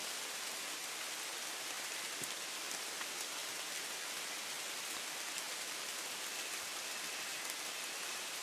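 Steady rain falling in woodland: an even hiss with a few separate drop ticks standing out now and then.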